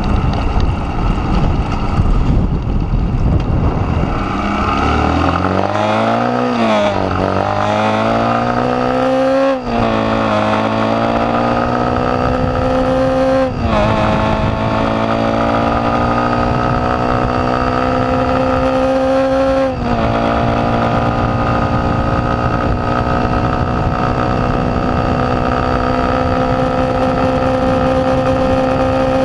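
Honda CGL 125 single-cylinder four-stroke engine accelerating hard through the gears. Its pitch climbs and then drops at each of four upshifts, the last about two-thirds of the way through, then keeps climbing slowly as the bike nears top speed.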